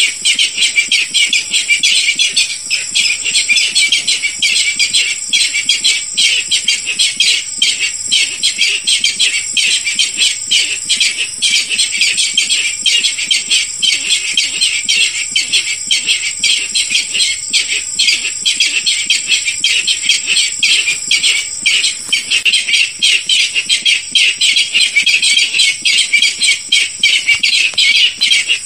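Barred rail calls played as a hunting lure: a continuous run of rapid, high, harsh notes with no pauses.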